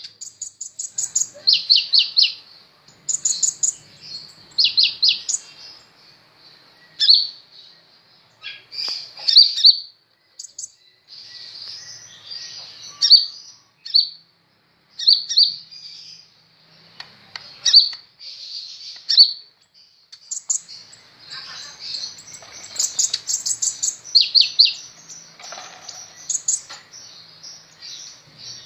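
Kolibri ninja sunbird singing actively: rapid high-pitched chirps and short trills in repeated bursts separated by brief pauses.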